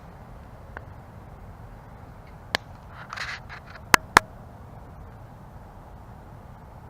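Wood campfire burning with a steady low rumble and a few sharp pops and crackles from the burning wood. The loudest are two pops close together about four seconds in, just after a short hiss.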